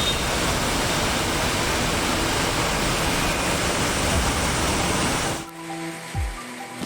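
Heavy rain pouring down, a dense even hiss. It cuts off suddenly about five and a half seconds in, giving way to music with steady held notes and a low falling sweep.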